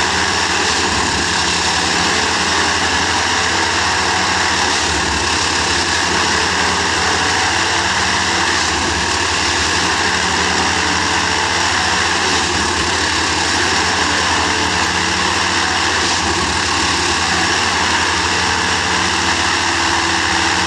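Railway ballast tamping machine running steadily, its heavy engine and machinery making a loud, continuous mechanical din while compacting the track ballast.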